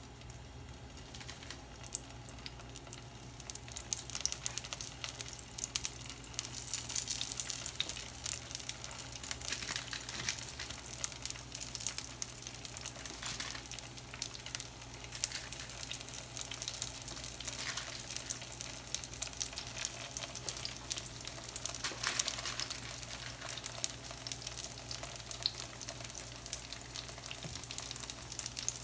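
Dough turnovers frying in hot vegetable oil in a nonstick pan: a dense sizzle with many small crackles. It starts about a second in and grows louder around seven seconds as more turnovers go into the oil.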